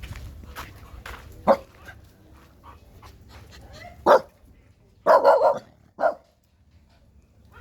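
A dog barking: a handful of short barks separated by pauses, two of them close together in the second half.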